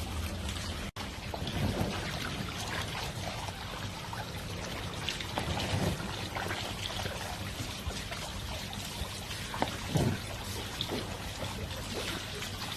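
Water pouring and trickling steadily, with scattered splashes, the loudest about ten seconds in.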